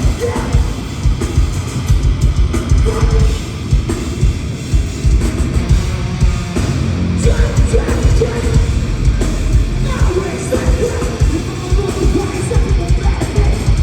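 Heavy metal band playing live: loud drums and guitar fill the low end, with some singing.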